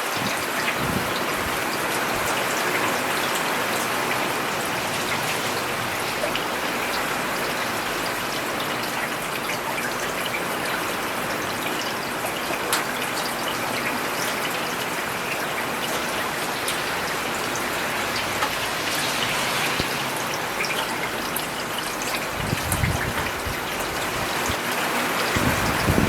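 Steady rain falling on a paved road, an even patter of drops throughout, with a couple of brief low rushes near the end.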